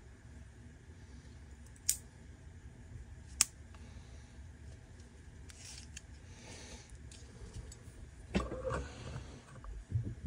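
Small hand tools and trimmer parts being handled on a workbench: two sharp clicks, a soft rustling, then a louder clatter near the end, over a low steady hum.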